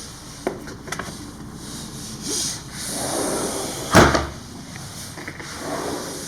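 Double-glazed sliding window being slid along its track and shut: a few clicks, rumbling slides and one loud knock about four seconds in.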